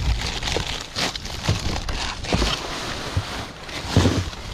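Rustling plastic packaging and repeated knocks as frozen-solid food packages are pulled out and handled, with a louder knock about four seconds in.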